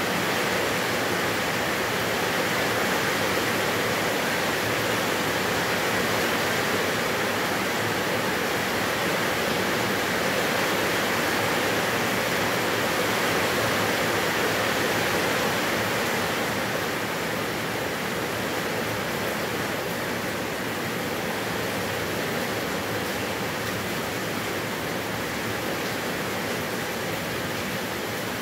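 Heavy rain falling steadily, a dense even hiss that eases slightly about halfway through.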